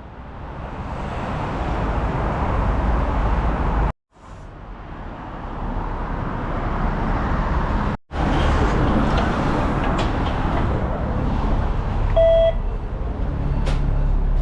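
Steady road-vehicle and traffic rumble, in short clips that cut off abruptly twice. A short electronic beep sounds near the end.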